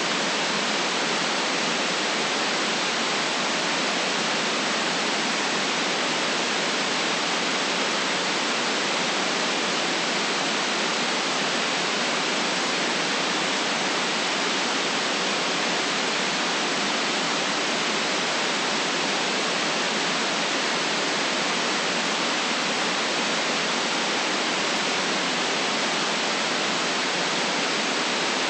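Generated white noise: a steady, unchanging hiss with the deepest bass and the highest treble cut off.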